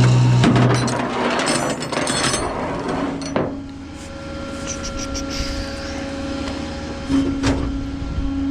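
Tow truck running steadily while its winch hook and chain are taken off the car: a loud metal clatter at first, then a few sharp knocks.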